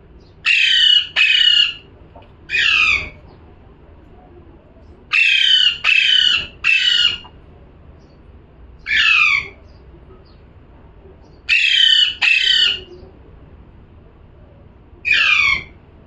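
Parrot squawking: ten harsh calls, each sliding down in pitch, given singly or in quick runs of two or three with pauses of one to two seconds between groups.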